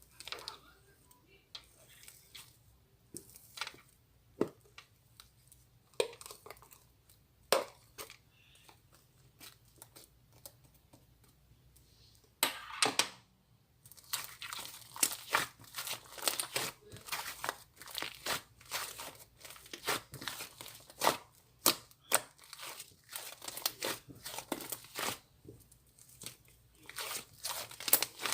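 Fluffy slime worked by hand: scattered sticky clicks at first, then from about halfway a dense run of crackling and popping as it is pressed and stretched.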